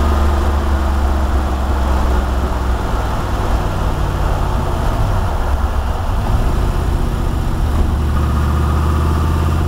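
TVR V8 engine in a Lotus Esprit idling with a deep, steady note. The engine speed rises a little around the middle, then settles back to idle.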